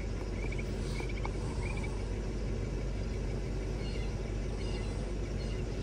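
Steady low rumble of the 1997 Mercedes S500 coupe's 5.0-litre V8 idling, with a few faint high chirps over it.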